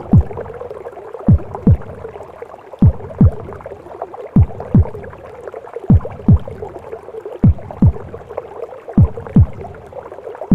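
A mother's heartbeat as heard from the womb: pairs of deep lub-dub thumps about every second and a half, over a steady whooshing, gurgling womb wash.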